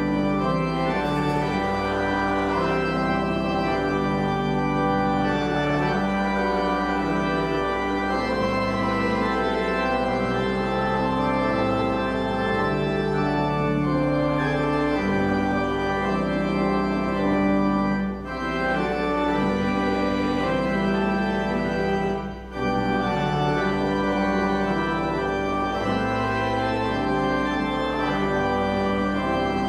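Church organ playing slow, sustained chords, with two brief breaks between phrases about eighteen and twenty-two seconds in.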